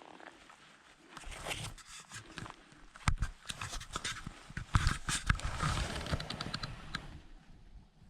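Irregular crunching, scraping and clicking of a person moving about and handling things, with a few heavier thumps about three and five seconds in.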